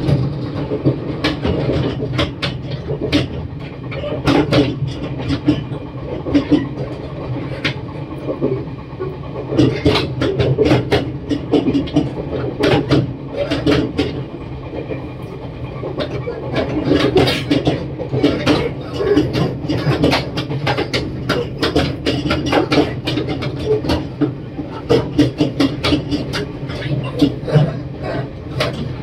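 Running noise inside a Tze-Chiang limited express train carriage moving at speed: a steady low rumble with frequent, irregular sharp clicks and knocks from the wheels going over the track.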